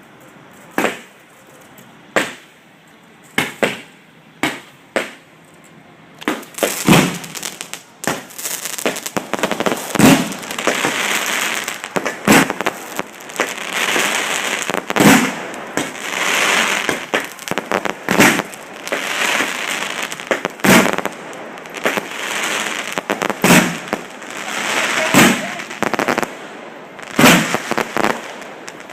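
Aerial fireworks going off close by. Single sharp bangs come about once a second, then from about six seconds in there is a dense barrage of booms over continuous crackling.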